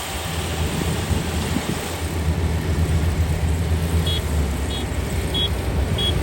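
Kubota ER572 combine harvester's 72-horsepower diesel engine running steadily. About four seconds in, a high electronic beep starts repeating evenly, about three beeps every two seconds.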